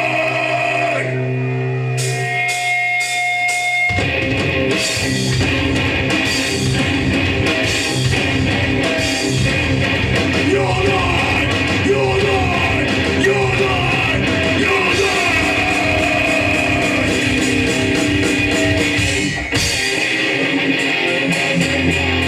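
Live hardcore punk band playing: distorted electric guitars and drum kit, with a few seconds of held guitar notes before the full band comes in about four seconds in, and a short break near the end.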